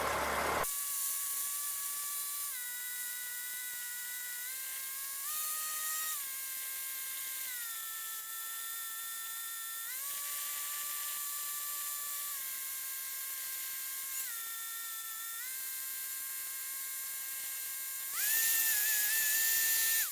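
Cessna 152 engine run-up heard through the headset intercom as a steady high whine. Its pitch steps down and back up every few seconds as the engine speed changes during the run-up checks. A louder hiss comes in near the end.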